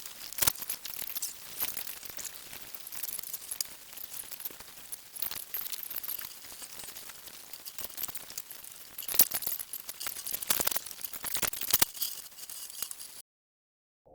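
Small hard objects clicking and clinking as they are handled, with irregular ticks and light rustling, cutting off abruptly about a second before the end.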